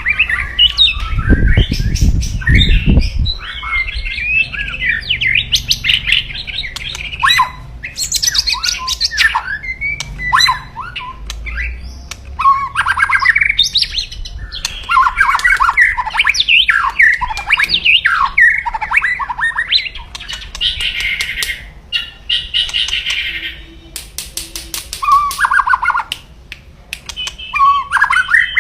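White-rumped shama (murai batu) giving a loud, aggressive song of quick varied whistled phrases, broken by dry crackling rattles: the 'kretekan' challenge call that works up rival males. A few low thumps fall in the first three seconds.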